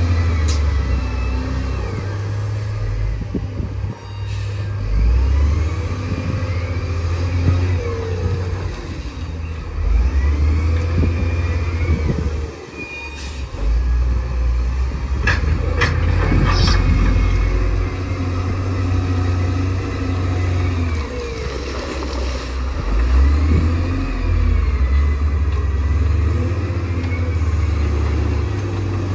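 Bulldozer's diesel engine working under changing load, its note rising and falling every few seconds as the blade pushes mud, with a few sharp metallic clanks about halfway through.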